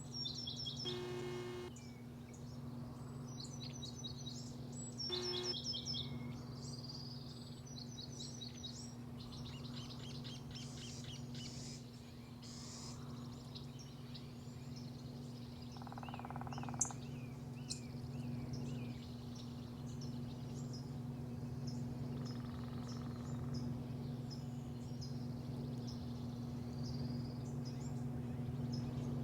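Small birds chirping and twittering again and again over a steady low hum, with two short, harsher calls about a second and five seconds in.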